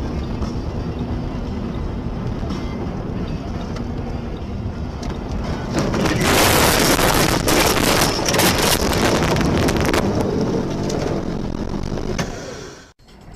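Car driving noise from a dashcam: steady engine and road rumble that swells into a much louder rushing noise for about four seconds in the middle, then cuts off abruptly near the end.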